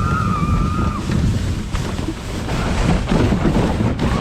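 Heavy wind rush on the microphone and the scrape of a kayak sliding fast down a snowy slope. A single high held yell lasts about a second at the start.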